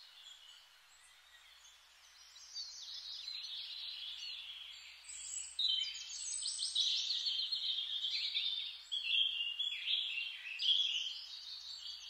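Birds singing: a busy chorus of quick chirps and trills that starts about two seconds in.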